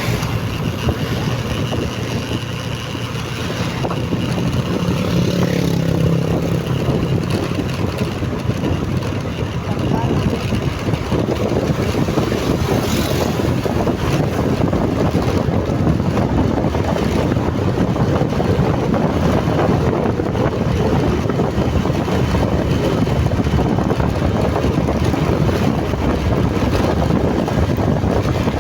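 Motorcycle ride heard from the rider's microphone: wind buffeting the mic over the motorcycle's running engine, a steady roar that grows louder and rougher about ten seconds in.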